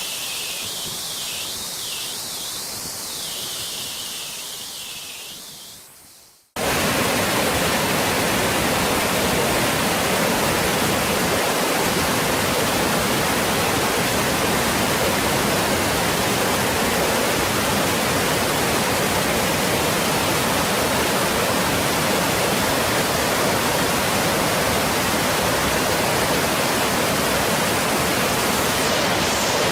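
Waterfall rushing: a softer hiss of falling water fades out over the first six seconds. About six and a half seconds in, it cuts abruptly to a loud, steady roar of water.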